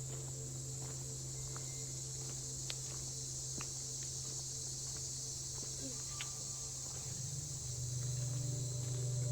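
Steady, continuous high-pitched chorus of insects in the woods, over a low steady hum that grows louder near the end.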